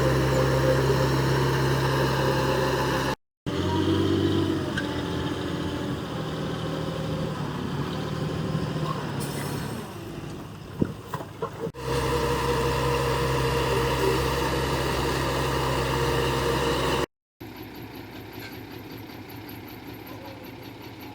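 Heavy diesel engine of construction machinery running steadily. The sound cuts off abruptly twice and resumes, with a few sharp clicks and knocks about halfway through; the last part is quieter.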